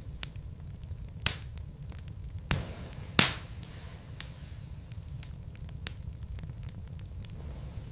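Wood fire burning in a fireplace: scattered sharp crackles and pops of burning logs over a low steady rumble, with the loudest pop about three seconds in.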